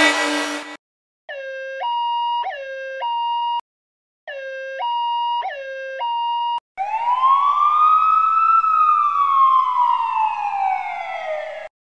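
Synthetic siren sound effects: a two-tone hi-lo siren pattern played twice, then one long wail that rises and then falls slowly before cutting off. Just before them, a loud buzzy horn blast ends under a second in.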